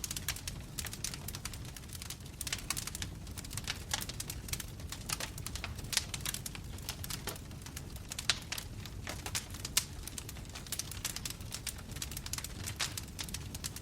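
Wood logs burning in a fireplace, crackling with dense, irregular pops and snaps over a steady low rumble, a few of the snaps louder than the rest.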